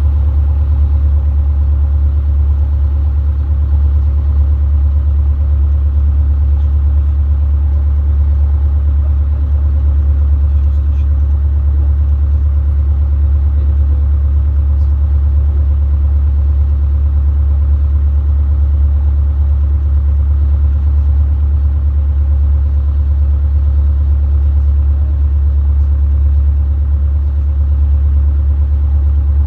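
Robin DR400 light aircraft's piston engine and propeller, giving a loud, steady low drone during the takeoff.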